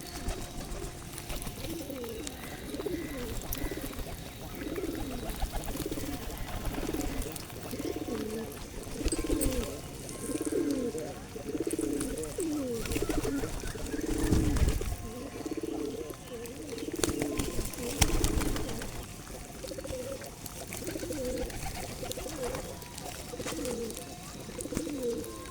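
Pigeons cooing steadily, low rise-and-fall calls about one a second. A couple of dull thumps come in about halfway through.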